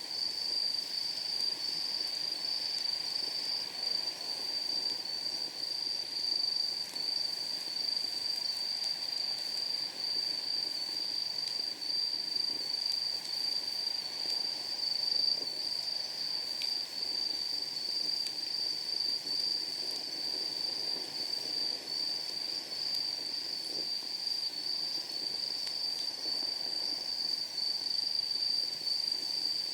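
Night insects trilling steadily at one high pitch throughout, with a few faint pops and crackles from a wood fire burning in a steel fire pit.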